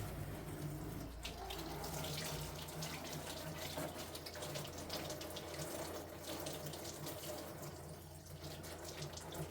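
Water running and splashing steadily, with a faint low hum underneath.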